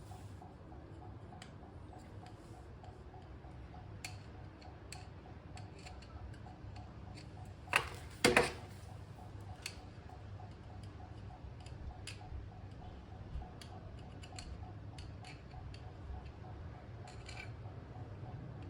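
Light clicks and taps of metal axle parts and hand tools being handled, with two sharp louder clicks about eight seconds in, over a steady low hum and a faint even ticking.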